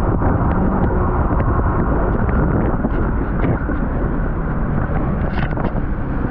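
1800cc jet ski running flat out at its top speed, about 73 km/h, with heavy wind buffeting the microphone.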